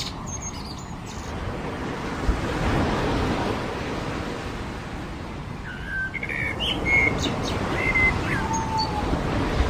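Ocean waves washing onto a beach, the surf swelling and easing, with small birds chirping at the start and again in a short series in the second half.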